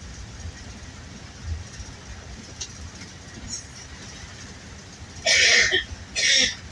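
Steady low rumble of a bus in motion, heard from inside the cabin, with two short, loud bursts of hissing noise about five and six seconds in.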